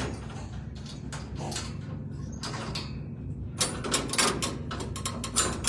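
Clicks and rattles of metal cat cages being handled, with a quick run of clattering near the end, over a steady low hum.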